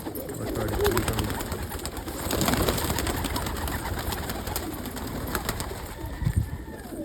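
Domestic pigeons cooing in a loft, with scattered clicks and knocks of the birds moving about; one louder thump a little after six seconds.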